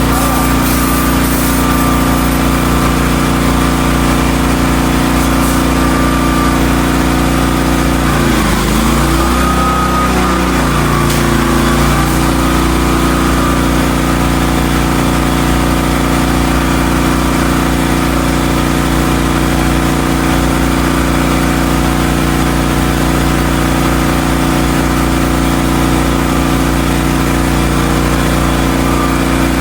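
The 16-horsepower gas engine of a Hotsy hot-water pressure washer running steadily. About eight seconds in its pitch drops and wavers for a few seconds, then settles back to a steady run.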